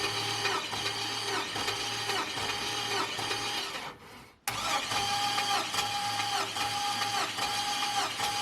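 Starter motor cranking a GM LS V8 with its spark plugs out for a compression test, with a steady starter whine and a regular pulse about twice a second. It stops about four seconds in and starts cranking again half a second later.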